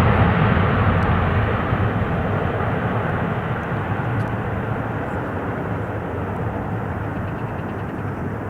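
An airliner's engines roaring as the aircraft passes, the noise slowly fading away as it moves off.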